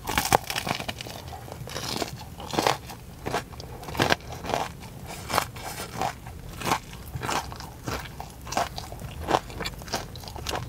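Crisp biting and chewing of a Korean corn dog with a fried-chicken coating. It starts with a loud crunching bite, then goes on as a run of crunchy chews, about one or two a second.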